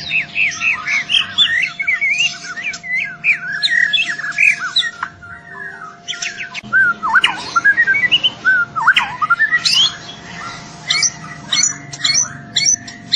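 A young white-rumped shama, still in speckled juvenile plumage, singing loud, varied song. It opens with a fast, even run of rising whistles, moves into deep swooping whistles, and ends with short, sharp chattering notes. A faint steady hum runs underneath.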